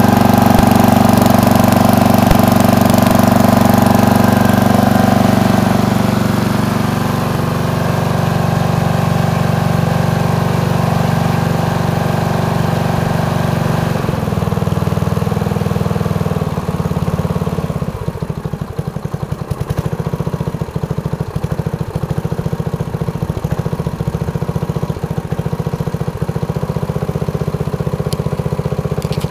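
1978 11 HP Briggs & Stratton single-cylinder engine on a 1980 Gilson snowblower running to warm up just after a cold, unprimed start at about −11 °C. Its sound steps lower a few seconds in, and from about 18 seconds in it turns quieter and uneven.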